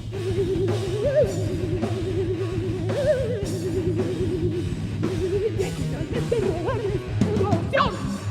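Live heavy metal band playing, with drums and a steady low rhythm under a sustained lead line that wavers with fast vibrato. The lead bends up twice and sweeps upward near the end.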